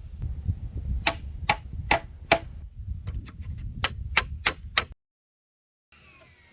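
Sharp tool strikes with a short ring in a quick, even rhythm, about two to three a second: four strikes, a pause, then five more, over a low rumble. The sound cuts off abruptly about five seconds in.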